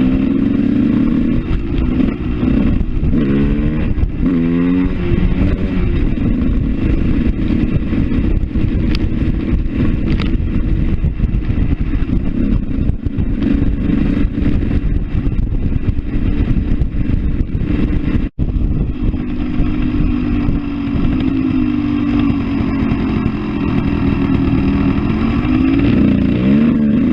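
Motorcycle engine running on the road, its pitch rising and falling with throttle and gear changes in the first few seconds and again near the end, holding steadier while cruising in between. It cuts out for a split second about two-thirds through.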